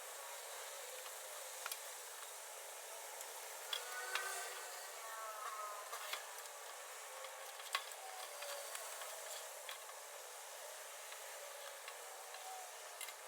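Wood fire burning in a fire pit: a steady hiss with scattered crackles and sharp pops from the burning logs.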